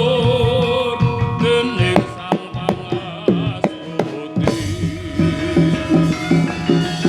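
Javanese gamelan music. A held, wavering melody line opens the passage. Sharp drum strokes whose pitch drops after each hit follow. From about halfway through, the ensemble plays a steady run of pitched notes over the drumming.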